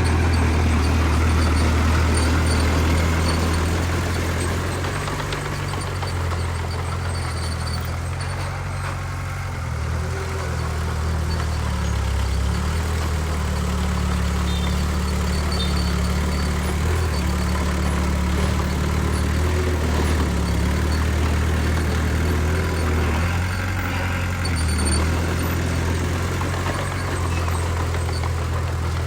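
Heavy diesel engine of earthmoving machinery running steadily, its deep note shifting slightly in pitch under changing load. It eases off a little a few seconds in, then comes back up.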